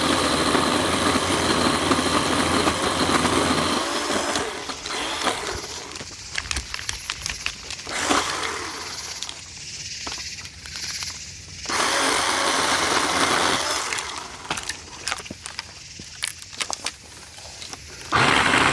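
Ryobi 18V cordless pole saw's electric motor running as its chain cuts into a dead oak branch, in two runs: one for the first few seconds and a shorter one about halfway through. Between the runs come crackling and clicking as the branch gives way and moves through the leaves.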